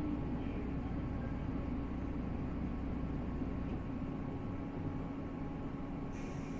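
Interior sound of a 485-series electric train car: a steady, even hum of the train's machinery with a few faint steady tones. The deepest part of the hum drops away about two-thirds of the way in, and a faint high hiss joins near the end.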